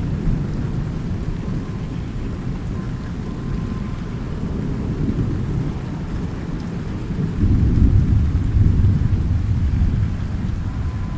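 Thunderstorm: rolling thunder over steady rain, with a deeper, louder rumble of thunder swelling about seven seconds in and fading over the next few seconds.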